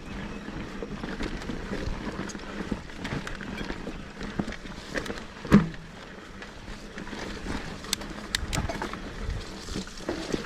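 Mountain bike ridden over a rough, wet dirt trail: tyre noise with frequent chain and frame rattles and clicks, and one hard knock about halfway through.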